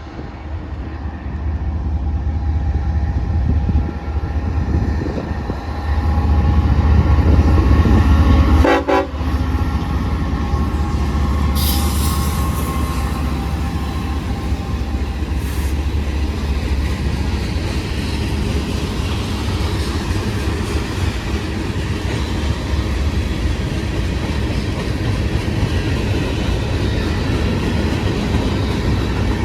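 CSX freight train passing, its diesel locomotives running with a loud, steady low drone that is loudest about six to nine seconds in, then the steady run of the passing cars. A train horn sounds within the first ten seconds.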